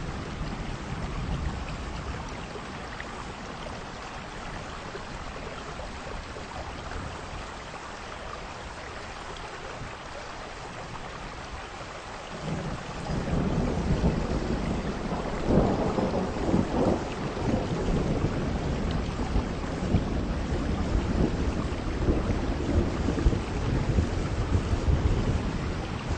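Heavy rain falling in a steady hiss. About halfway through, a low rumble of thunder comes in and rolls on, swelling loudest a few seconds after it starts.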